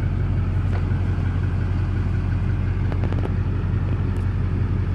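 A car's engine running steadily, heard from inside the cab as a low, even hum, with a few faint clicks.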